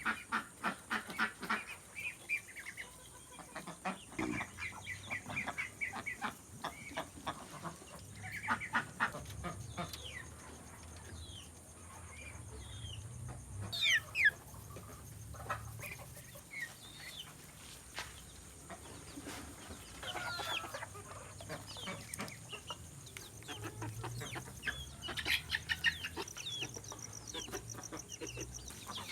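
Chickens clucking and calling, with runs of quick short clucks and a louder, sharp falling squawk about fourteen seconds in.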